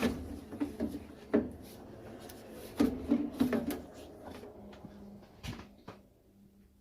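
Plastic clicks, knocks and rattles of hand work as the condensate siphon is unclipped and worked out of a Worcester Bosch boiler, with a few short squeaks of plastic on plastic a few seconds in; the handling dies away near the end.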